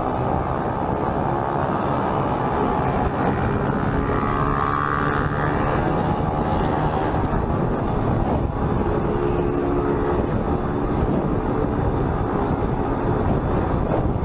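Motorcycle engines running at speed under a steady rush of wind noise, their pitch rising and falling as they rev.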